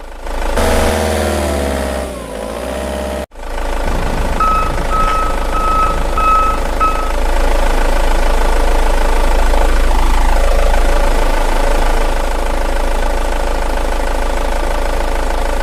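Truck engine sound effect running steadily, gliding in pitch for the first couple of seconds and then cutting out sharply for an instant about three seconds in. About four seconds in, a string of about five short, evenly spaced beeps like a reversing alarm sounds over it.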